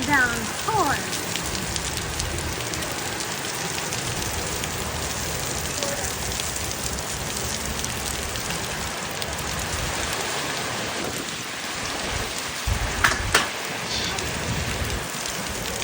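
Heavy rain pouring steadily, with a brief louder thump about thirteen seconds in.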